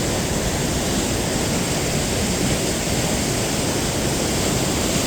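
Rogue River rushing over and under rocks: a steady, loud rush of turbulent whitewater with no letup.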